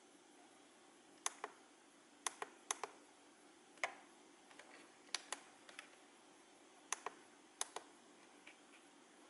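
Scattered sharp clicks, about a dozen, most in quick pairs, over faint steady room hiss.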